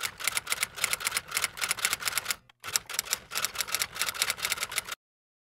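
Typewriter sound effect: rapid key clacks, about six a second, in two runs with a brief break about two and a half seconds in, then stopping suddenly. It accompanies text being typed out.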